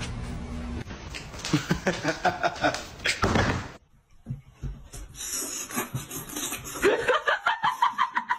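People laughing. A burst of laughter comes about a second and a half in, then after a brief gap another laugh comes near the end as quick, rhythmic ha-ha pulses.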